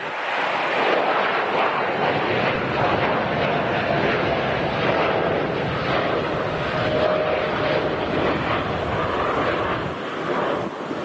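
Boeing 787-8 Dreamliner's jet engines at departure power, a loud steady rushing noise with a faint tone drifting slightly in pitch.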